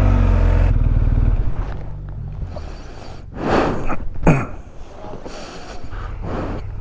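Motorcycle engine running with wind noise on the microphone; the engine fades after about a second and a half, leaving quieter wind with two short louder rushes about halfway through.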